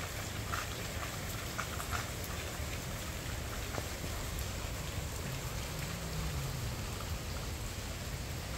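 Steady rain falling, with a few close drops ticking in the first couple of seconds.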